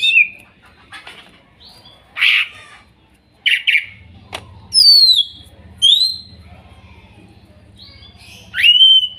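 Cucak ijo (green leafbird) calling: a run of sharp chirps and loud clear whistles, two falling in pitch about five and six seconds in, and one rising then held near the end. A faint low hum starts about four seconds in.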